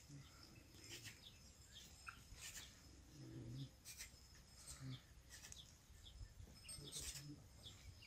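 Near silence with faint, short bird chirps scattered throughout, each call dropping quickly in pitch.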